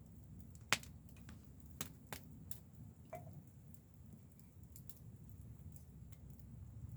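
Wood fire crackling: irregular sharp pops and snaps, the loudest a little under a second in, over a low steady rumble.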